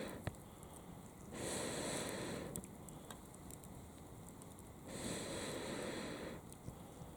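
Long rushes of blown air, three of them, each about a second and a half, coming about every three and a half seconds, with a sharp click just after the first.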